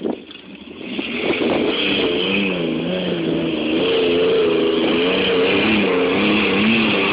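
SUV engine revving hard from about a second in, its pitch wavering up and down, with a steady hiss over it.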